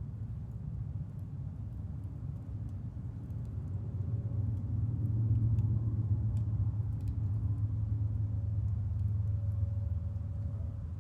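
Low rumble of a passing train, swelling about four seconds in and holding for several seconds, with faint steady tones over it. Sparse small crackles from a wood fire in a chiminea.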